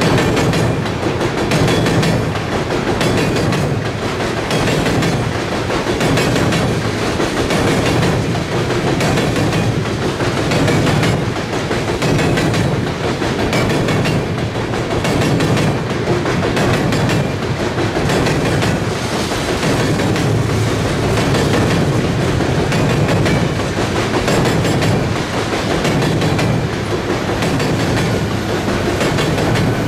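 Empty coal hopper cars rolling across a steel girder bridge, their wheels clacking in a steady clickety-clack over the rail joints, with a continuous rumble.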